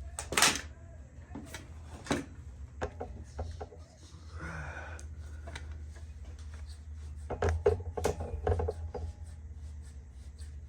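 Hands working on lowrider bicycle parts: scattered metal clicks and knocks with a brief rub, loudest near the start and again about three-quarters of the way through, over a steady low hum.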